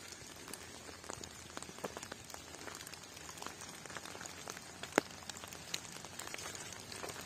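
Rain falling, with irregular drops ticking on a surface over a faint steady hiss; one sharper drop about five seconds in.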